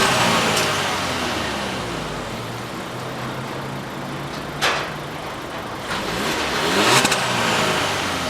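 2015 Volkswagen Golf 1.4 TSI turbocharged four-cylinder engine being revved while parked: the revs fall back from a blip at the start, then rise again about six seconds in and drop away, held at a free-rev limit of around 4,000 rpm. A sharp click about halfway through.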